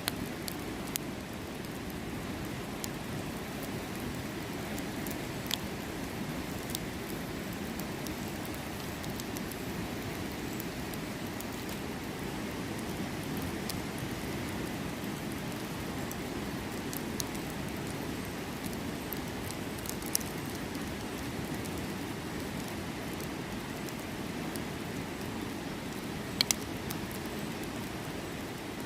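Steady rushing of a river, with scattered sharp crackles and pops of firewood burning in a campfire; one louder pop about two-thirds of the way through and a quick double pop near the end.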